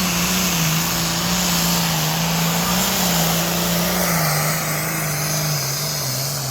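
A pulling tractor's engine running hard at high revs, its pitch slowly sinking, with a dense hiss over the top.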